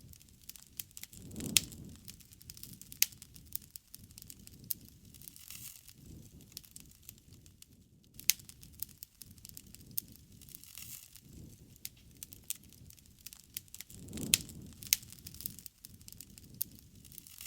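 Wood fire crackling, with sharp irregular pops and snaps over a soft low rush of flames that swells briefly a couple of times.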